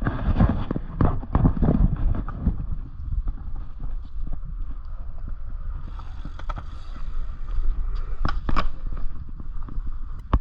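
Wind buffeting the microphone and tyre rumble while a dirt jump bicycle is ridden, with two sharp knocks about eight seconds in.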